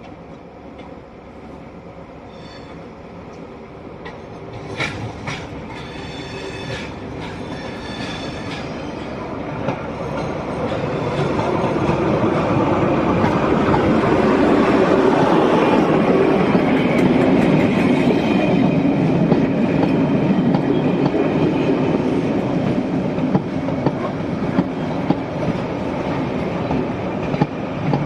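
A Colas Rail Class 43 diesel power car leading a Network Rail test train approaches and passes at speed. The engine and wheel noise build steadily to a peak as the power car goes by about halfway through, then the coaches follow with a clickety-clack over the rail joints. Brief high-pitched ringing tones sound about five to nine seconds in.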